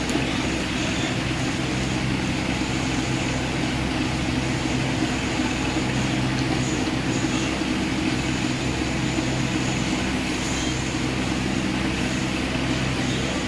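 A steady low hum with a hiss over it, unchanging in level.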